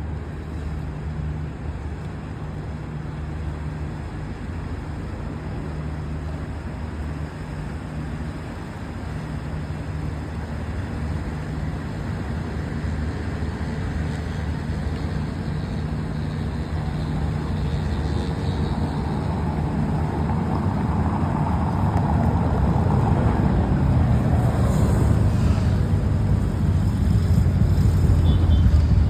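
Engine of a passing riverboat running with a steady low hum, growing gradually louder as the boat draws near.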